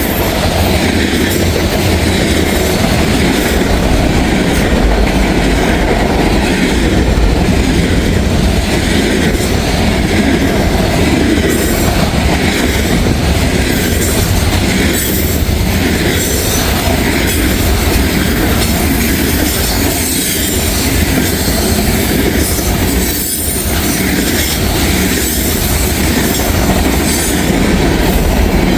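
Freight train rolling past at close range: a loud, continuous rush and clatter of steel wheels on the rails, the same throughout with only a brief slight dip.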